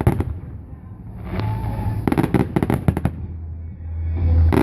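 Fireworks display: quick clusters of sharp bangs and crackles near the start, again about two to three seconds in, and at the end, with a low booming rumble between them.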